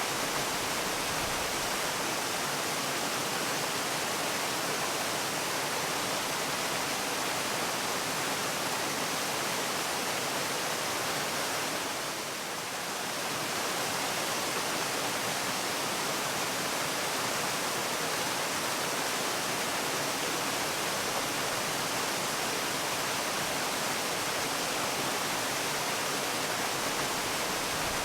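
Waterfall: a steady, even rush of falling water, with a brief slight dip in level about twelve seconds in.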